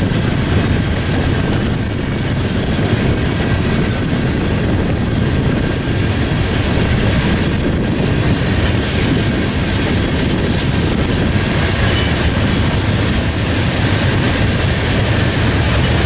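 Freight train rolling past, a steady loud rumble of steel wheels on the rails.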